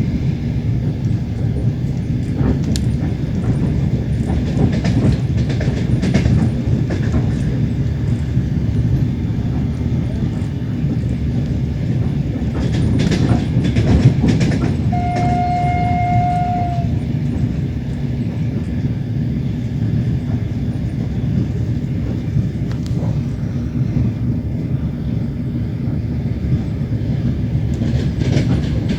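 Train running along the track, heard from a carriage window: a steady rumble with bursts of wheel clicks over the rail joints. About halfway through, a train horn sounds once on a single steady note for about two seconds.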